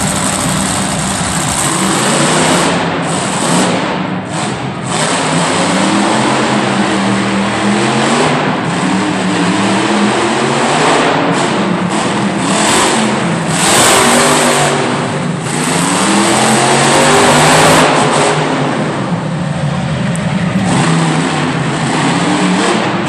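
Monster truck engine revving hard, its pitch climbing and dropping again and again every second or two, during a timed run.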